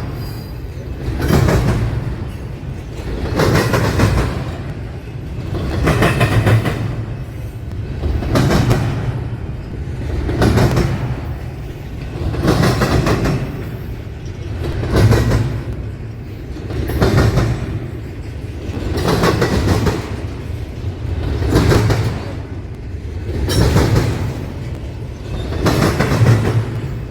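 Railcars of a passing train rolling steadily through a rail crossing diamond. The wheels clatter over the crossing in an even rhythm, one loud swell about every two seconds as each pair of trucks goes over, over a constant rumble.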